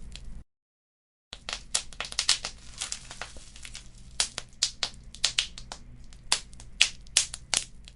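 Wood fire crackling, with irregular sharp pops and snaps over a low rumble. The sound cuts out completely for about a second near the start.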